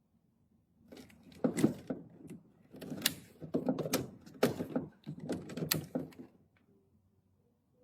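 Irregular knocks and rattles of hard objects being handled, lasting about five seconds and then stopping.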